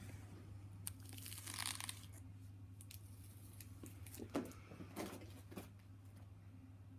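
A kitten's crinkly fetch toy rustling and crinkling for about a second, starting about a second in, then a few light knocks and bumps near the middle.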